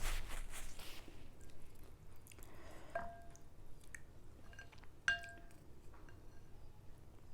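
A spoon clinks twice against a bowl of mohinga noodle soup, about three and five seconds in, each clink ringing briefly. Soft, wet eating sounds come between the clinks.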